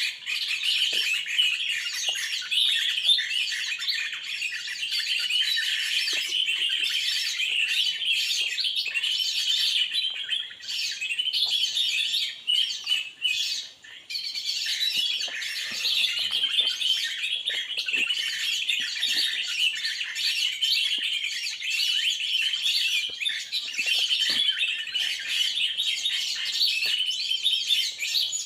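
Small birds chirping and twittering in a dense, continuous chatter of fast, high chirps, thinning briefly about halfway through.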